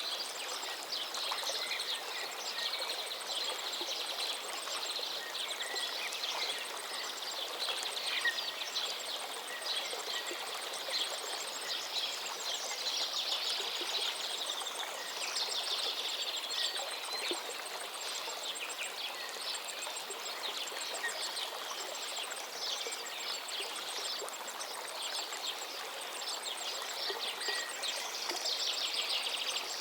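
A river flowing steadily, with many birds chirping and singing over it in short, overlapping calls. A faint, high, rapidly pulsing trill runs underneath.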